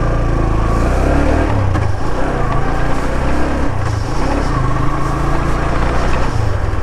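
Motorcycle engine running while riding, its pitch stepping up and down a few times as the throttle changes.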